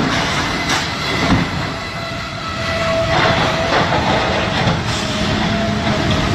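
Freight train rolling through a level crossing as it hits and shoves a box truck, with sharp crashing knocks in the first second and a half. A steady high tone joins the train's noise about halfway through.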